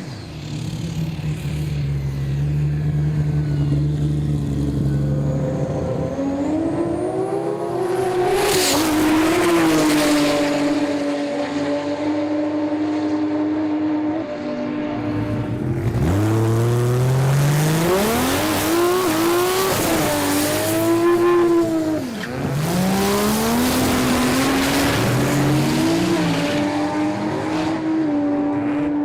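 Turbocharged Ford Barra 4.0-litre straight-six engine at high revs. The revs hold steady for long stretches and climb again several times, about 7, 16 and 22 seconds in.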